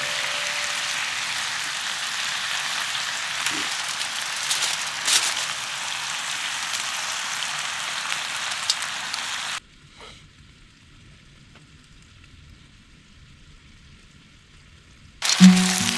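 Cheese dakgalbi sizzling in a pan over a campfire: a steady frying hiss with a few sharp crackles. About ten seconds in, it cuts off abruptly to a much quieter stretch, and music starts near the end.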